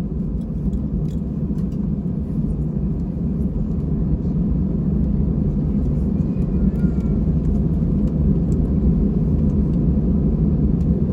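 Steady low rumble in an Airbus A320-200's passenger cabin as it taxis after landing, engines at idle, with a few faint clicks. It grows slightly louder about four seconds in.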